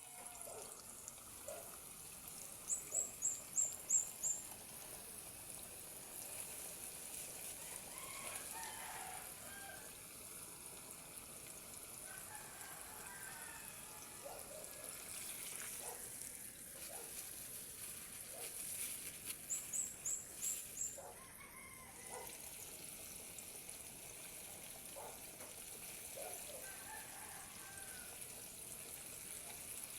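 Steady high sizzle of chicken frying in oil. Over it come scattered clucks and calls of chickens, and twice, about three seconds in and again about twenty seconds in, a quick run of about six sharp high chirps, the loudest sounds.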